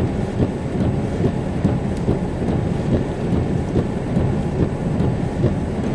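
Steady low rumble that swells and dips unevenly, made up of wind buffeting the microphone and rolling thunder in a severe thunderstorm.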